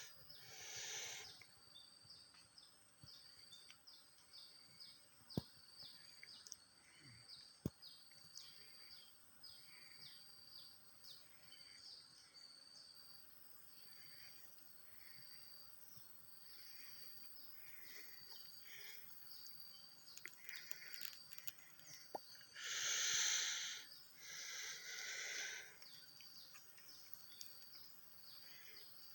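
Birds calling: short high chirps repeating about once a second, with two louder, harsher rasping calls, one at the start and one about 23 seconds in.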